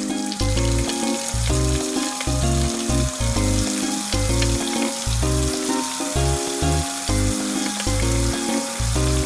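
Steady frying sizzle, crackling through the whole stretch, under bouncy background music with a regular bass line and a simple stepped melody.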